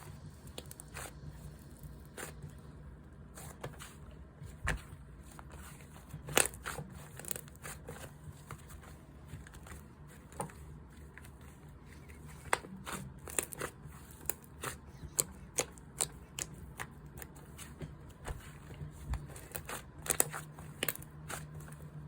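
Slime being squished and pressed by hand, giving sharp sticky clicks and pops that come more often in the second half, over a low steady hum.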